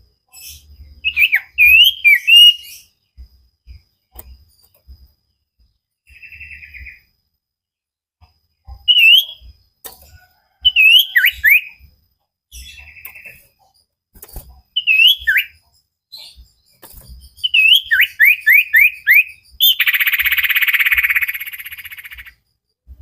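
A songbird singing in short whistled phrases of quick rising and falling notes, with pauses between phrases. Near the end comes a quick run of five falling notes, then a loud harsh buzzy trill of about two and a half seconds.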